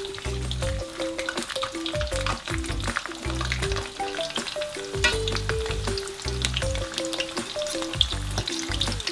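Battered pieces of glutinous rice cake, taro and sweet potato sizzling and crackling steadily in hot oil in a stainless steel frying pan. Background music with a stepping melody and a pulsing bass line plays underneath.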